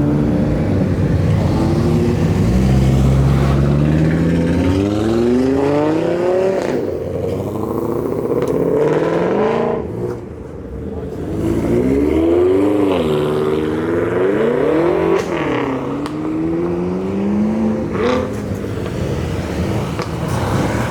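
Performance car engines revving and accelerating away, the pitch climbing in several rising sweeps as they pull through the gears. Near the middle the revs rise and fall repeatedly, and a sharp crack is heard about 18 seconds in.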